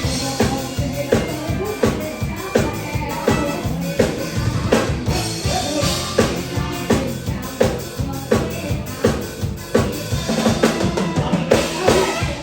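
Drum kit played fast and busily, with bass drum, snare and rimshot strokes, over mor lam band music with a steady low bass line.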